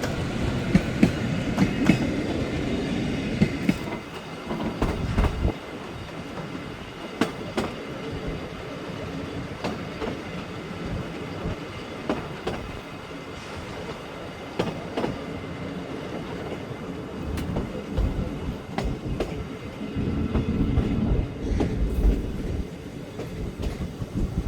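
A train rolling past, its wheels clicking over the rail joints. It is loudest in the first four seconds, then quieter with scattered clicks, and swells again briefly about twenty seconds in.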